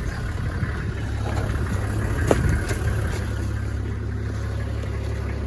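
A motor vehicle's engine running steadily with a low hum, and a single sharp click a little over two seconds in.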